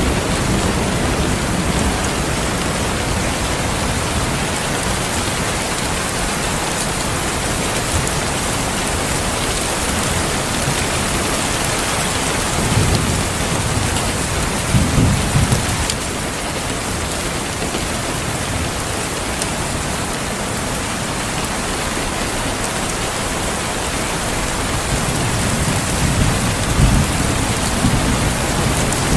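Steady heavy rain with rolling thunder. Low rumbles build about halfway through and again near the end.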